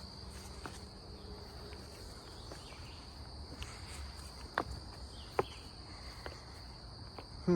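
Steady high-pitched insect chorus, with footsteps and a few sharp snaps of brush underfoot; a short, loud, falling sound right at the end.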